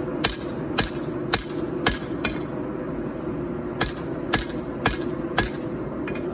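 Hand hammer forging hot 4140 carbon steel. The strikes fall about two a second, in a run of four or five, then a pause of about a second and a half, then four more, over a steady low background noise.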